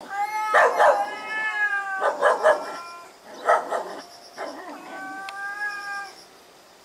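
Domestic cats caterwauling in a territorial standoff: long, drawn-out, wavering yowls, with harsher and louder outbursts in the first few seconds, then a single steadier yowl that fades near the end.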